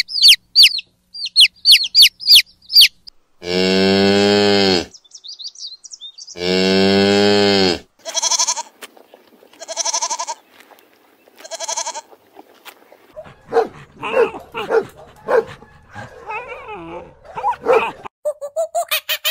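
A sequence of farm and domestic animal calls. First come rapid, high chicks' peeps, then two long cow moos, then three shorter goat bleats. After that a dog barks in short irregular bursts, and a rapid run of squeaks follows in the last second.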